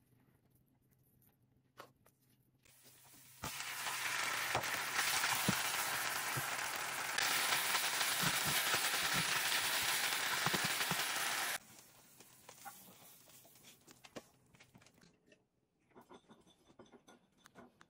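Marinated beef cubes sizzling loudly in a hot nonstick frying pan as they are stirred with a silicone spatula, with light taps of the spatula in the hiss. The sizzle starts about three seconds in and cuts off abruptly some eight seconds later, leaving only faint clicks and taps.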